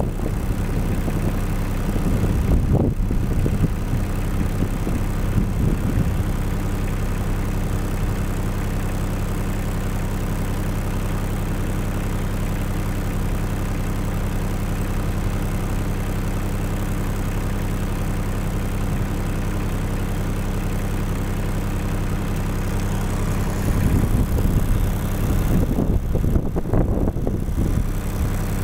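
An engine running steadily at a low, even idle, with gusts of wind buffeting the microphone about three seconds in and again near the end.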